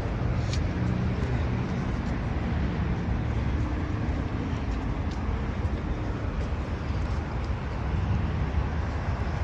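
Steady low rumble of car engines running, with outdoor traffic noise.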